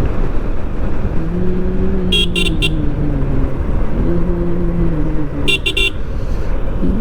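Motorcycle running along the road with steady wind and engine rumble, while a vehicle horn gives a quick run of short toots about two seconds in and again about five and a half seconds in.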